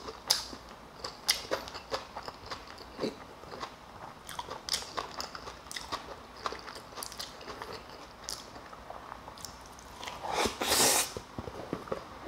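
A person eating close to the microphone: chewing and biting with many short clicks and crunches. About ten seconds in, a louder, longer noisy sound lasts nearly a second.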